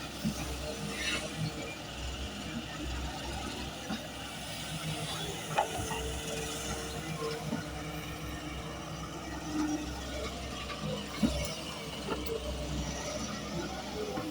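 Small geared motor running with a steady faint hum, with scattered clicks and knocks.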